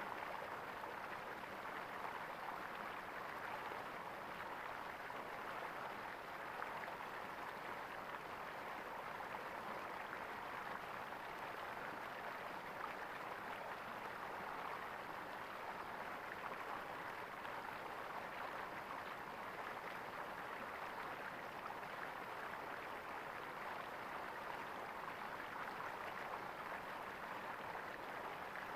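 Water gurgling steadily in a small stream, an unbroken, even rush with no distinct splashes.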